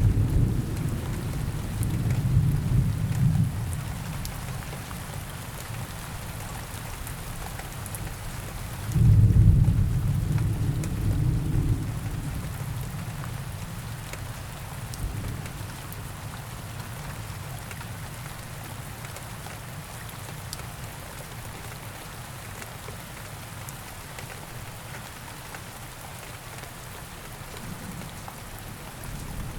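Steady rain falling, with low thunder rumbling: one roll fading over the first few seconds and another starting about nine seconds in and dying away after about three seconds.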